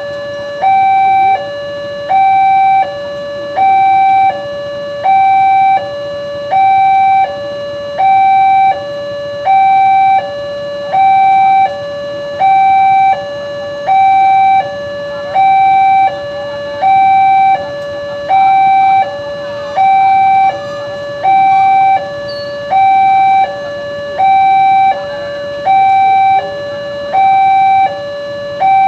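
Electronic warning alarm at a railway level crossing, sounding an even two-tone pattern. A louder high note alternates with a lower note, about one high-low cycle every 1.4 seconds, warning that a train is approaching and the barrier is closed.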